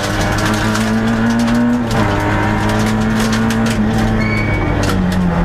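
Peugeot 106 XSi rally car's engine running hard at high revs, heard from inside the stripped cabin, with many clicks and knocks over it. The engine pitch dips briefly about two seconds in and drops again near the end.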